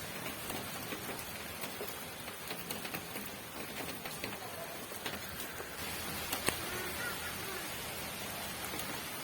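Steady rain falling, with scattered drops ticking on a hard surface and one sharper drop hit about six and a half seconds in.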